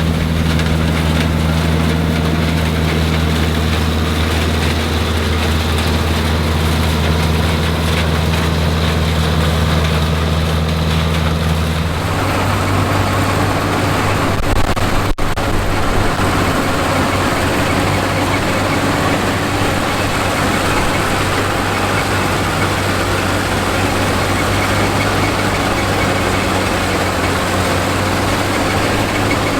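Classic combine harvester engines running steadily under harvesting load. About twelve seconds in, one machine's even hum gives way to a different machine with a rougher, noisier running sound, and there is a single sharp click a few seconds later.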